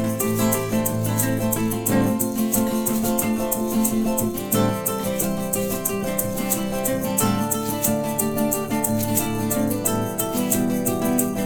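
Instrumental break of an acoustic band performance: acoustic guitar playing sustained chords, with a shaker keeping a fast, even rhythm.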